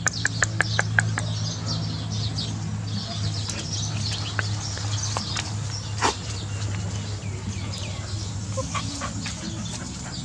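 Small birds chirping again and again over a steady low hum. A quick run of about eight sharp clicks falls in the first second.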